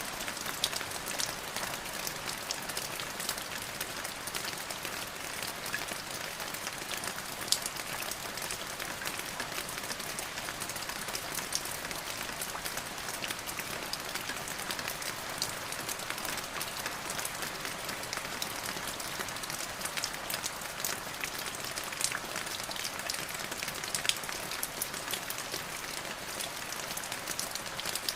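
Steady rain falling on a surface, a dense even hiss with many individual drops ticking sharply through it.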